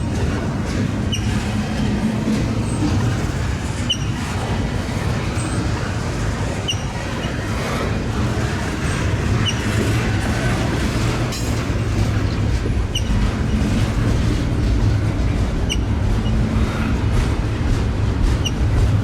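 Norfolk Southern freight train rolling past, a steady rumble of railcars on the track.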